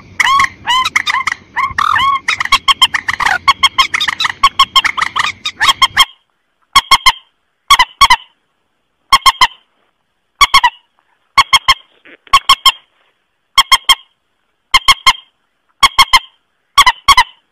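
Recorded mandar calls (a rail-family waterbird such as a swamphen or crake) played as a hunting lure: for about six seconds a dense run of rapid calls over background noise, then short clipped bursts of two or three notes repeated about once a second with silence between.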